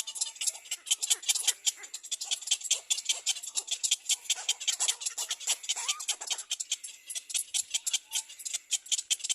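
Birds at a nest giving a rapid, irregular run of short, high chirps, several a second, without pause.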